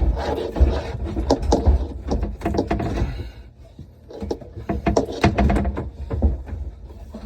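Irregular knocks, clunks and clicks of parts and tools being handled while installing a dishwasher, with low rumbling handling noise, easing off for a second or so midway.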